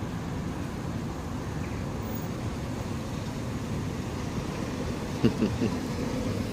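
Steady low rumble of road traffic, with a brief voice-like murmur about five seconds in.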